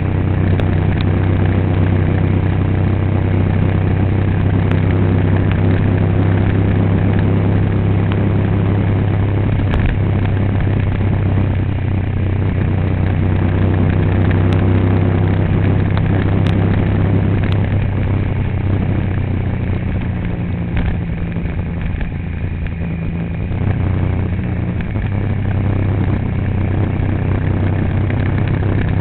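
Vehicle engine running steadily under way, a low drone whose note drops lower about two-thirds of the way through and comes back up near the end.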